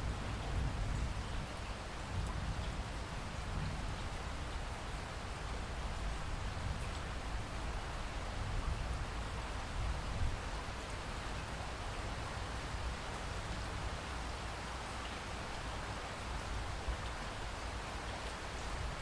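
Steady rain falling, an even wash of noise with a low rumble underneath.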